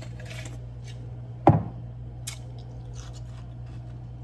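Kitchen handling sounds: small clicks, scrapes and rustles over a steady low hum, with one sharp knock about a second and a half in.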